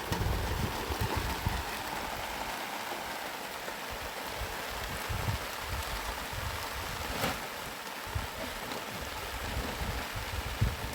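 Steady rain falling, a constant hiss, with gusts of wind rumbling on the microphone and one sharp tap about seven seconds in.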